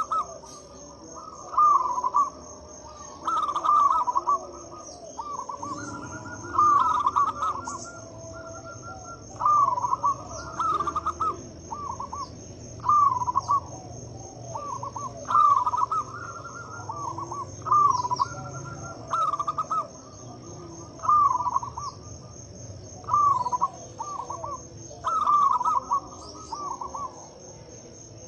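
Zebra dove (perkutut) cooing: short, rolling phrases repeated every one to two seconds, with a steady high-pitched tone behind them.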